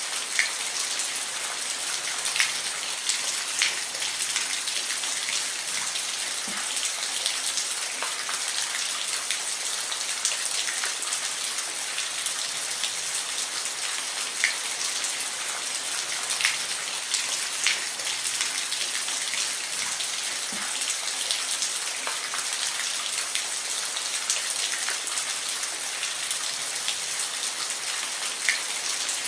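Steady rain falling, a constant high hiss with frequent individual drops ticking sharply on a surface.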